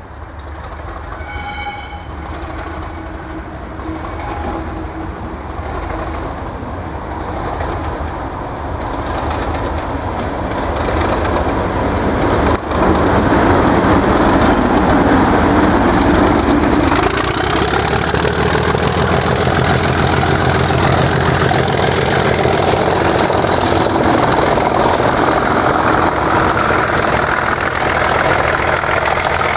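Two Class 37 diesel locomotives' English Electric V12 engines working hard as they pull a train out of a loop, growing louder as they approach. About seventeen seconds in, a high turbocharger whistle rises over a few seconds and then holds.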